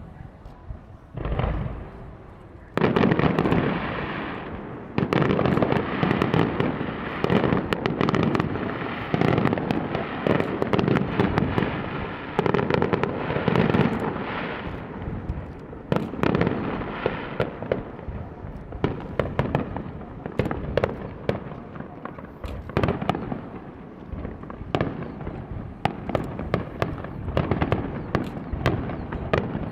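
Fireworks display: aerial shells bursting, with a boom about a second in and a bigger burst about three seconds in, followed by a dense run of bursts and crackling.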